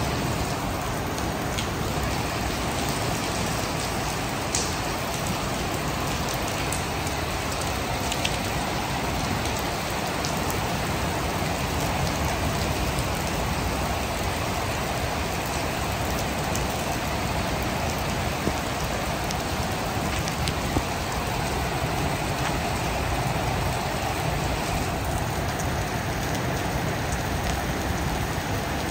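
Heavy rain falling steadily, with scattered ticks of drops striking nearby surfaces.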